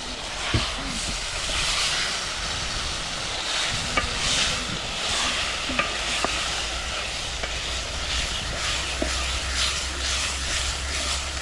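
Food frying in a pot over a wood fire: a steady sizzling hiss with a few light, sharp clicks.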